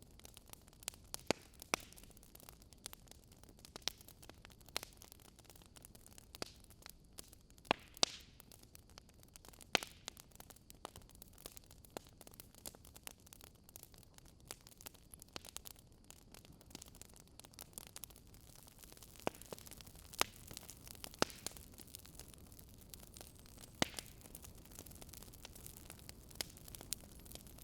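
Campfire wood burning with irregular crackles and pops over a soft low hiss.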